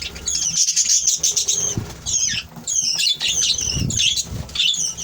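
A flock of small parrots chattering together in a continuous stream of rapid, shrill chirps and short downward-sweeping calls, many birds at once.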